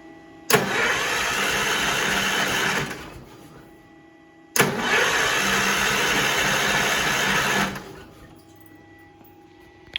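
Allis Chalmers tractor's Kohler engine being cranked over on the starter twice, each try lasting two to three seconds and starting and stopping suddenly, the engine trying to catch. The carburetor throttle is stuck wide open, which the owner finds is why it smokes black and acts like it is running flat out.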